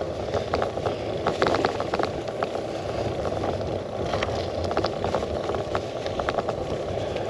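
Gravel bike riding over a rough, stony track: steady tyre rumble with many irregular clicks and rattles as the bike and its handlebar-mounted camera are jolted.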